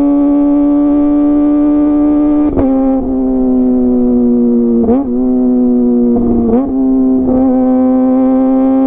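Kawasaki ZX-25R's 250 cc inline-four running at high revs through a DX Generation GPR full-system aftermarket exhaust: a loud, steady, high-pitched exhaust note. The pitch drifts slowly, and it breaks and jumps briefly about four times, around two and a half, five, six and a half and seven and a half seconds in.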